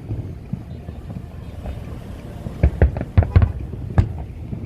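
Fireworks bursting: a quick run of sharp bangs in the second half, the last near the end the sharpest, over a steady low rumble of background noise.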